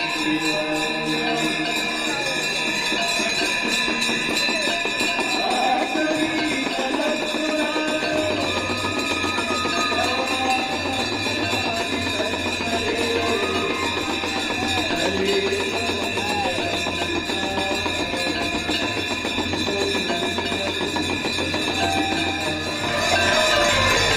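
Devotional music of the Ganga Aarti: singing over steady ringing of bells and hand percussion, with a low drone that comes in about a third of the way through.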